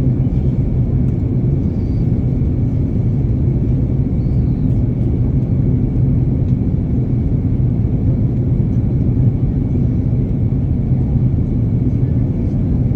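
Airplane during landing: a steady low rumble of engines and airflow, with a faint high whine held steady over it.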